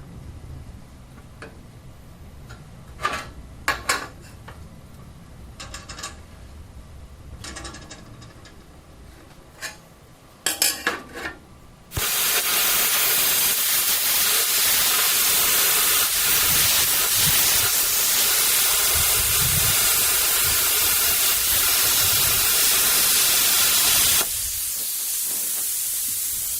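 A few light clicks and scrapes of handling, then about halfway in a plasma cutter starts cutting steel plate with a loud, steady hiss that runs for about twelve seconds. Near the end the cutting stops and a quieter air hiss carries on briefly. The cutter was hanging up during this cut.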